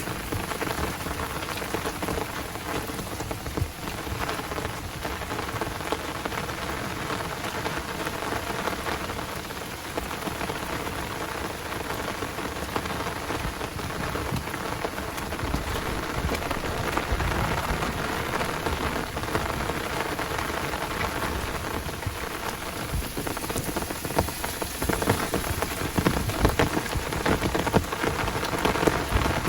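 Heavy rain falling steadily, a dense patter of drops, growing somewhat louder about 24 seconds in.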